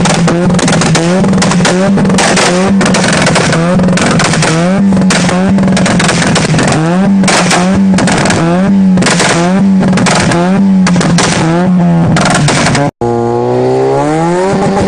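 Toyota Etios engine and exhaust revved again and again in quick throttle blips, with sharp crackles like firecrackers between the revs, the sound of a Unichip piggyback-ECU tune. Near the end, after a brief break, one rev falls back down.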